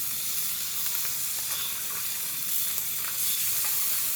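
Meat frying on a hot grill pan: a steady sizzle with scattered small pops of fat.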